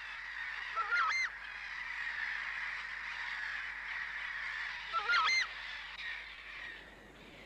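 Southern screamer giving two short, loud calls about four seconds apart, over a steady high-pitched background chorus of the marsh.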